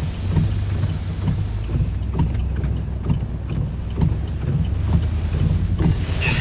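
Deep, steady rumble of hurricane-force eyewall wind buffeting a truck, heard from inside the cab, with scattered faint taps.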